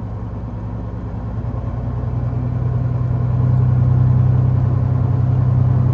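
Diesel engine of a freshly overhauled 2014 Peterbilt glider semi truck running at low speed, a steady low drone that grows louder between about two and three and a half seconds in as the truck pulls away, then holds.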